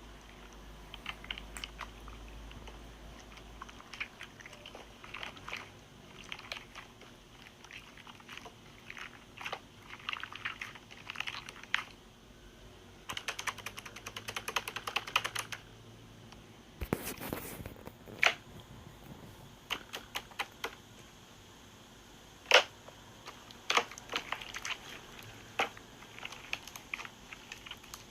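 Irregular runs of quick clicks and taps, with a few sharper, louder clicks in the second half.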